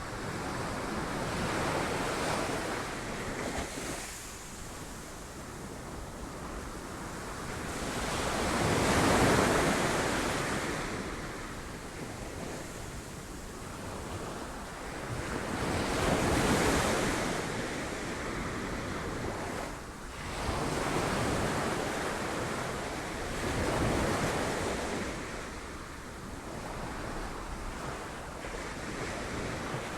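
Sea waves breaking on rocks: a continuous surf wash that swells into a loud break and drains away every several seconds, the biggest breaks about nine seconds in and again around sixteen seconds.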